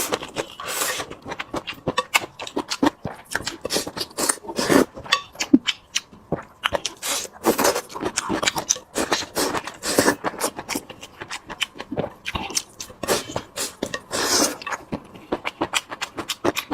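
A person chewing and smacking food close to the microphone: an irregular run of short wet clicks and crunches.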